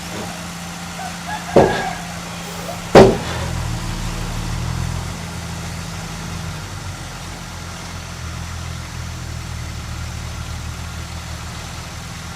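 Heavy diesel earth-moving machine running steadily, with two sharp bangs about a second and a half apart near the start, the second one the loudest; just after the second bang the engine note grows heavier for a few seconds, then settles.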